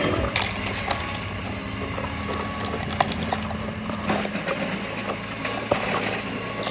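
Loose soil being scraped up and dropped into a hole over a buried toy tractor, a run of small crunches and ticks with a few sharper clicks, over a steady low hum.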